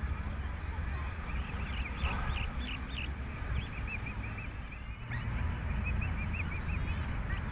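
Ducks and geese calling: many short, repeated high calls over a steady low rumble.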